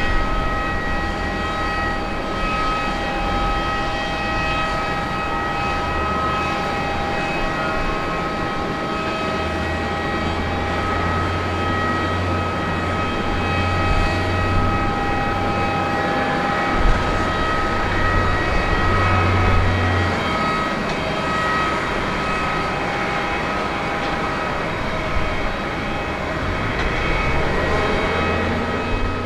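Airbus A350-941's Rolls-Royce Trent XWB turbofan engines running: a steady rushing jet noise with several steady whining fan tones and a low rumble underneath.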